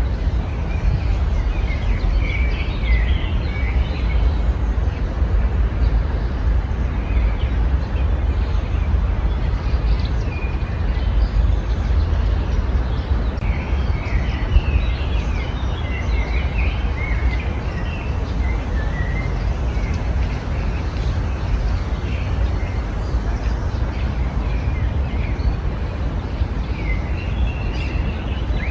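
Several small birds chirping and trilling on and off in short phrases over a steady low rumble.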